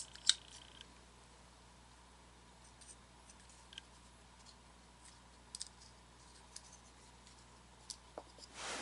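Small plastic animatronic parts being handled: two sharp clicks just after the start, scattered light ticks, and a short rustle near the end.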